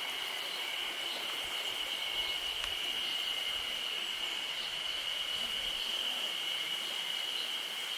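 Insects droning steadily on one held high pitch, over a soft, even rush of water from the waterfall.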